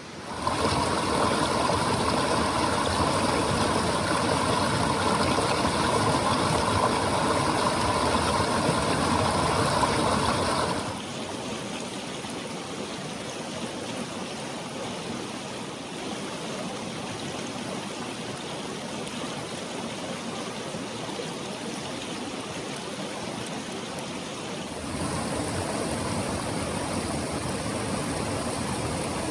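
Clear mountain stream rushing over rocks in a steady, even wash. It drops to a quieter level about eleven seconds in and grows louder again near the end.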